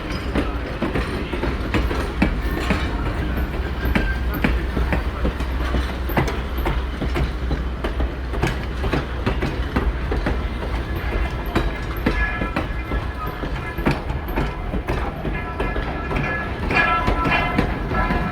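Train running on rails: a steady low rumble with quick, uneven clacking of wheels over the track. From about two-thirds of the way in, high steady tones like wheel squeal join it.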